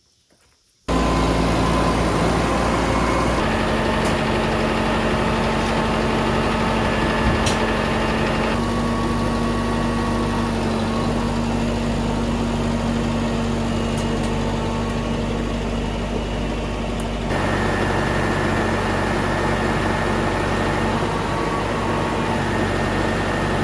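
A loud, steady motor hum that starts abruptly about a second in and shifts in tone suddenly a few times along the way.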